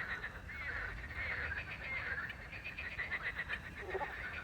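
A chorus of frogs croaking at night, overlapping calls made of rapid pulses, about ten a second, mixed with short rising-and-falling croaks.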